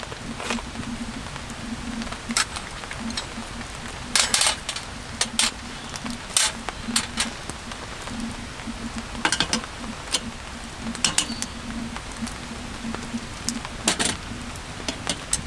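Metal cookware and utensils clinking and knocking at irregular moments, about ten times, over a steady hiss of rain.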